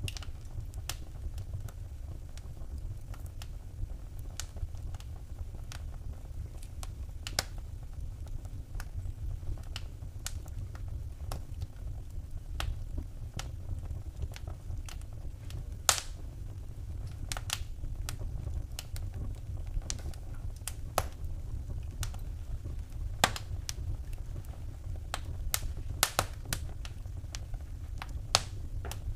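Wood fire in a fireplace crackling, with sharp irregular pops and snaps, a few louder than the rest, over a low steady rumble of the flames.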